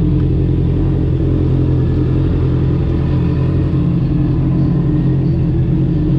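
Honda CB650R inline-four engine idling steadily through a Two Brothers Racing full exhaust, warming up before the ride.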